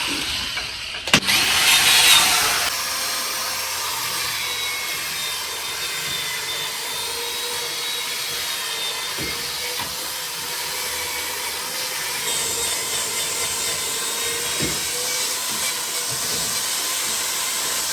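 A handheld power sander running steadily against the truck's steel frame, sanding it clean, with a constant whine under the rasp of the abrasive. A sharp click about a second in is followed by a louder scraping stretch.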